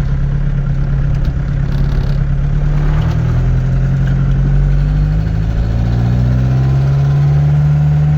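Mk2 Ford Transit van's engine running while the van is driven. The engine note drops about three seconds in, then climbs steadily as the van accelerates in gear.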